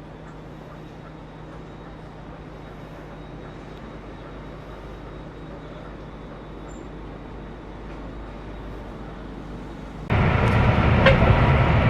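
Steady low drone of a Scania K410CB coach on the move, heard from inside the cabin. About ten seconds in it jumps abruptly to much louder road and engine noise with sharp clicks.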